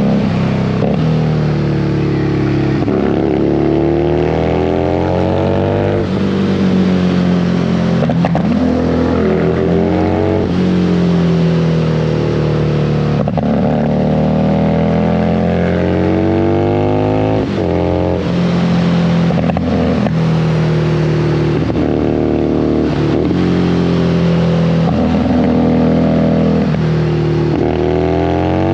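Harley-Davidson Street Rod 750's V-twin engine under way, its pitch climbing over a few seconds and then falling again, over and over, as it pulls up through the revs and eases off or shifts. There is steady wind and road rush over the top.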